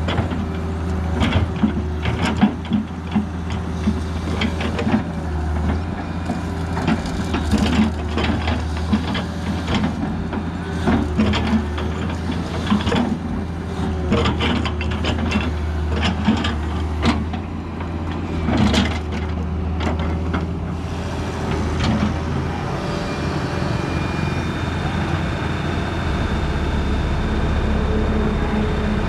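Excavator engine running steadily under repeated knocks, clanks and scraping as the bucket digs dry mud. The knocking thins out about two-thirds of the way through, leaving a steadier engine drone with a faint high whine.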